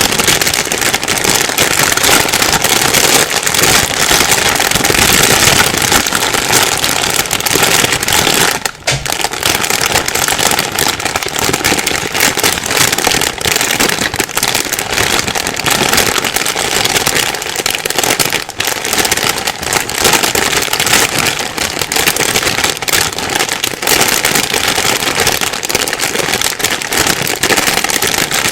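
Plastic bag rustling and crinkling continuously, with a brief lull about nine seconds in.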